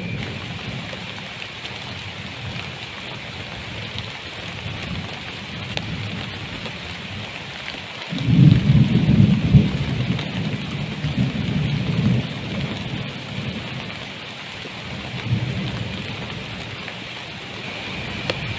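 Heavy rain falling steadily, with a roll of thunder that breaks in suddenly about eight seconds in and rumbles on for several seconds, fading in waves.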